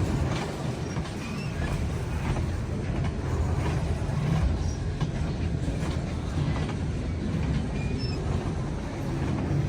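Freight train cars rolling past: a steady low rumble with irregular clicks from the wheels on the rails.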